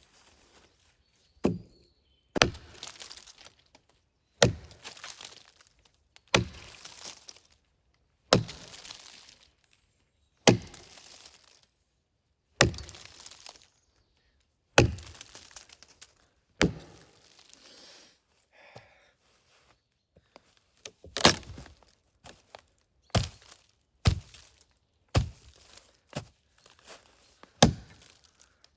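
Firewood being broken up by hand: a run of sharp cracks, about one every two seconds, coming quicker, about one a second, in the last third.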